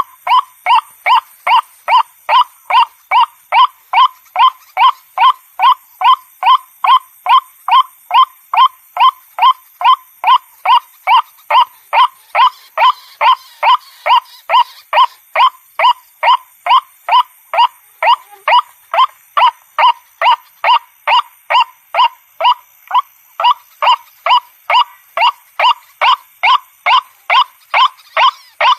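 White-breasted waterhen (ruak-ruak) calling: short, loud notes repeated steadily about twice a second in one unbroken series.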